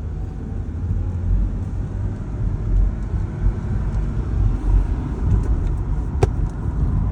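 Inside a 2007 BMW 328i wagon on the move with the windows down: a steady low rumble of engine, tyres and road, with a single sharp click about six seconds in.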